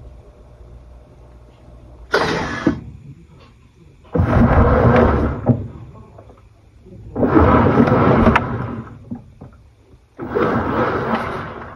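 Panasonic NA-FA80H8 top-loading washing machine running in short strokes, its drum churning the load in loud swishing bursts about every three seconds with brief pauses between, over a low steady hum.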